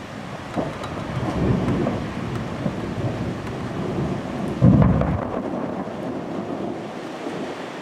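Thunder rumbling over falling rain, with a sudden louder peal about four and a half seconds in that then dies away.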